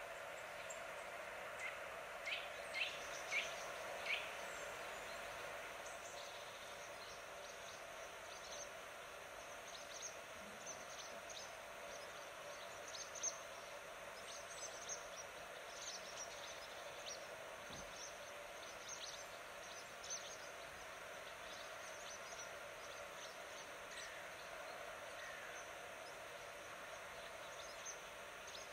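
Birds chirping and calling over a steady background hiss, with a quick series of louder calls about two to four seconds in.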